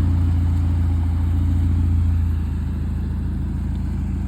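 Car engine running steadily through an aftermarket header-back exhaust, a deep low drone with rapid even pulsing that eases off slightly a little over two seconds in.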